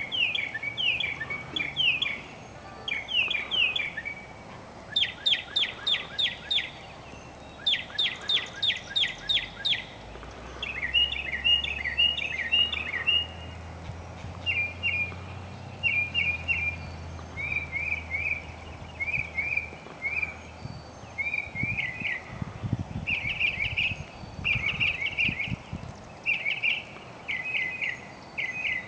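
Northern mockingbird singing: a long, varied song of short phrases, each repeated several times before it switches to a new one, ranging from sweeping whistled notes to rapid runs of sharp notes and warbles.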